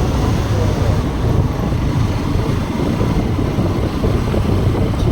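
Wind rushing over the microphone of a motorcycle being ridden, a steady low rumble with road and engine noise beneath it.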